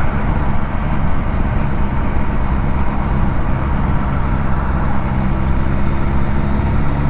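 Motorcycle engine running steadily at low road speed, with wind and road noise over it.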